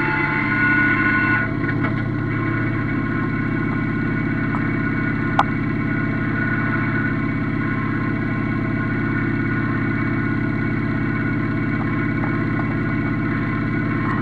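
Yanmar F16D mini tractor's diesel engine running steadily. About a second and a half in its higher tones drop away and it gets slightly quieter, and there is one sharp click about five seconds in.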